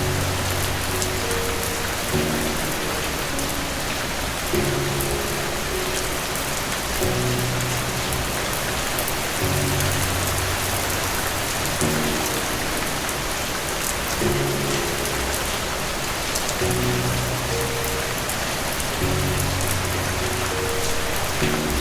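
Steady rain with soft, slow music under it: low held notes or chords that begin again about every two and a half seconds.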